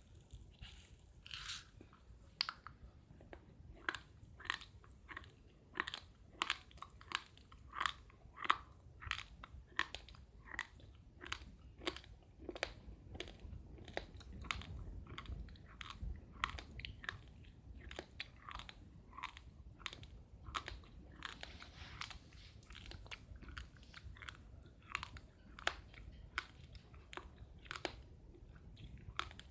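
Uncooked rice grains being chewed, a steady run of sharp, dry crunches a few times a second.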